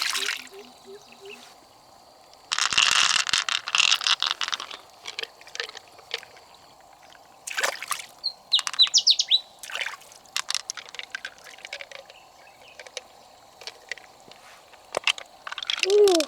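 River water splashing or pouring for about two seconds, then scattered clicks and knocks, with a short run of bird chirps about halfway through.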